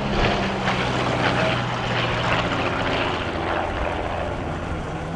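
Twin Gipsy Six piston engines of a de Havilland DH.88 Comet racer droning in flight, a steady propeller-aircraft engine note that eases off slightly near the end.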